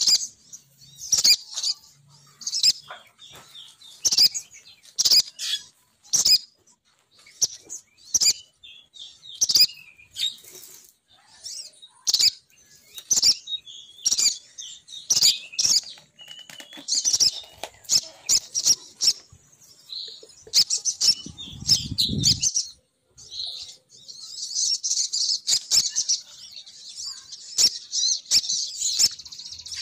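Sogon bird lure call of a female sogon: sharp, high-pitched chirps repeated about once a second, running into a fast continuous twittering for the last few seconds. A brief low rumble comes about two-thirds of the way through.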